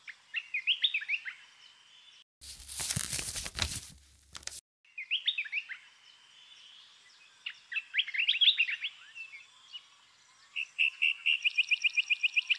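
Small birds chirping in short, quick rising notes, ending in a rapid trill of about eight notes a second. About two seconds in, a two-second burst of rough noise cuts across.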